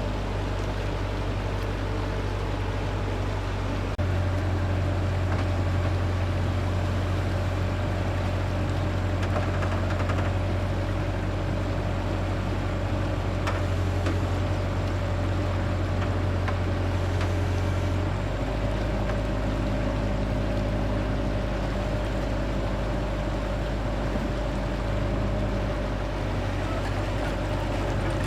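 An engine running steadily with a low drone, stepping slightly louder about four seconds in and changing its note again about halfway through.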